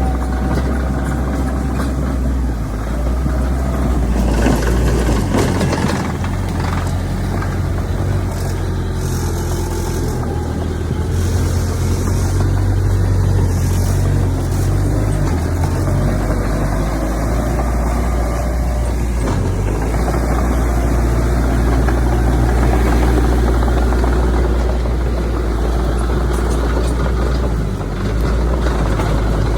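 Heavy diesel engine of earthmoving machinery running steadily and loud, with a few scattered knocks and short bursts of hiss.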